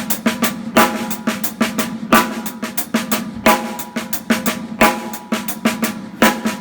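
Drum kit playing a groove: accented snare backbeats and bass drum, with quiet ghost notes filled in on the snare between them and cymbals ringing over the top.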